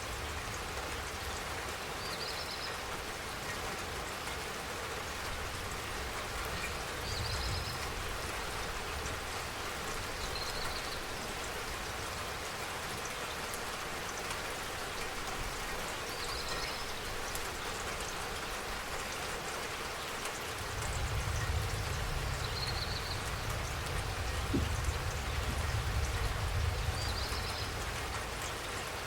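Steady spring rain falling, an even dense patter, with a short high chirp every few seconds. A low rumble swells in for several seconds in the last third.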